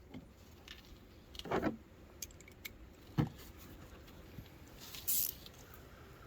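Metal hand tools from a socket set clinking and clicking as a 10mm socket is picked out and put to work on a fender bolt, with a short scrape and one louder knock about three seconds in.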